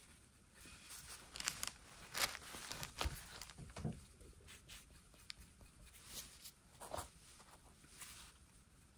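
Faint, irregular workbench handling noises: light taps, clicks and rustles, with a few louder knocks in the first half and another near the end.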